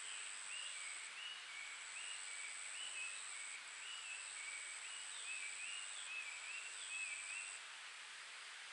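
Stream water running, with a steady high-pitched insect trill that breaks off briefly now and then. Over it a bird sings a run of short notes that step up and down in pitch, stopping near the end.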